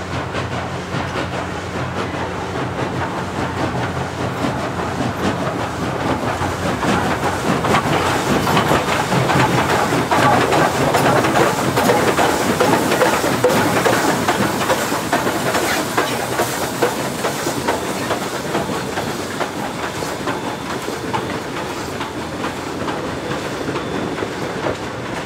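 Steam-hauled train passing by, its wheels clattering over the rail joints in a run of rapid clicks. The sound grows to its loudest about halfway through, then fades.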